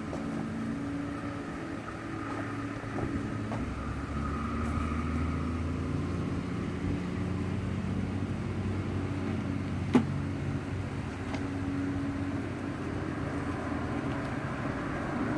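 Honeybees buzzing around an open hive as its frames are inspected: a steady hum, with a lower drone joining from about four seconds in until near the end, and one sharp click about ten seconds in.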